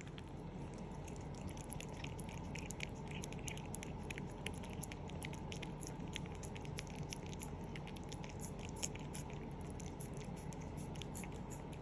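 Cat licking a Churu puree treat: quick, irregular wet clicks and smacks of its tongue and mouth, several a second.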